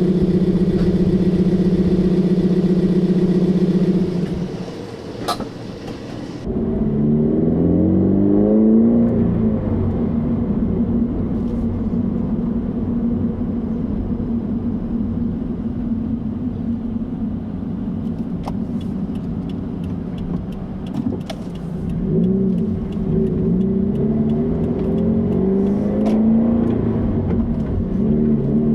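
Exhaust note of a Subaru BRZ / Toyota GT86's 2.0-litre flat-four through a Borla 11839 axle-back exhaust, heard from inside the cabin while driving. It holds a steady note at constant revs, drops suddenly about four seconds in, then climbs in rising sweeps through gear changes. It settles into steady cruising and climbs and falls again in revs near the end.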